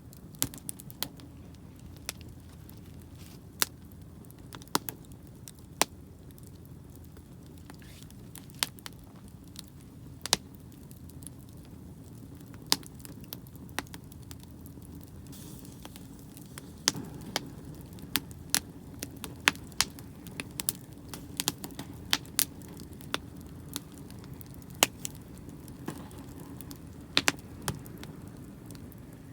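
Wood campfire crackling, with sharp irregular pops that come more often in the second half, over a steady low rumble.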